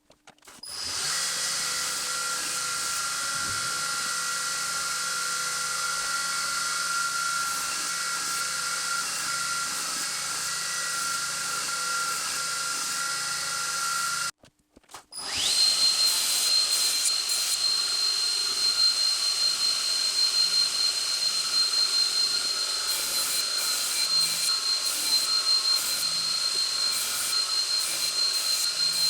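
A power tool running steadily in two separate stretches, split by a brief cut about halfway through. The second stretch is louder and higher-pitched.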